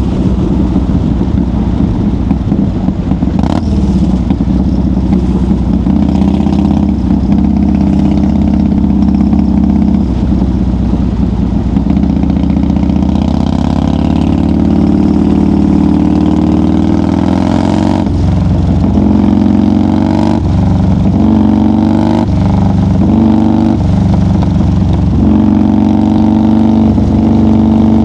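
1990 Harley-Davidson FXR's Evolution V-twin engine running at highway speed. It rises in pitch a little over a third of the way in, then drops off and picks up again several times in the second half, as with throttle roll-offs or gear changes.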